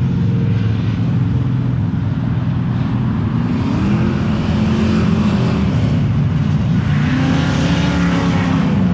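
Muscle cars pulling away and driving past, their engines rumbling steadily with two swells in pitch as they rev and go by, about four seconds in and again near seven seconds.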